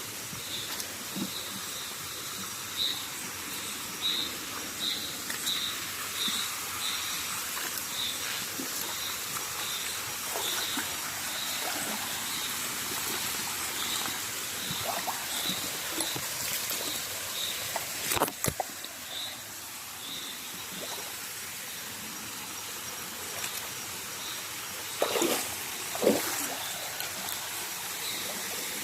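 Night rainforest ambience: water trickling steadily, with a small creature's repeated high chirp about one and a half times a second that fades out partway through. A sharp click comes about 18 s in, and a couple of soft knocks come near the end.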